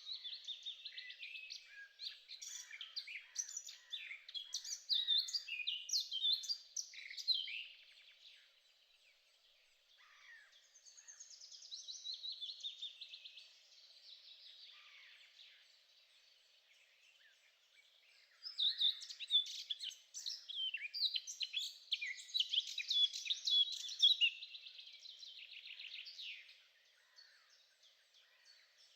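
A songbird singing long phrases of rapid, varied chirps and trills. It sings for about the first eight seconds, again briefly around twelve seconds, and again from about eighteen to twenty-six seconds.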